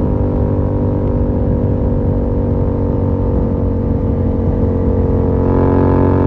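Yamaha MT-07's 689 cc parallel-twin engine running through an open Yoshimura R77 exhaust with the dB killer removed. It holds a steady cruise with engine speed easing slightly, then gets louder as the throttle opens near the end.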